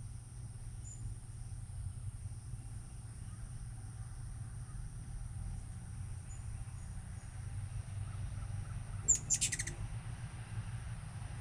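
A hummingbird's quick burst of high, sharp chittering chips, about half a second long and about two thirds of the way in, with a few faint short high tweets before it. A steady low rumble runs underneath.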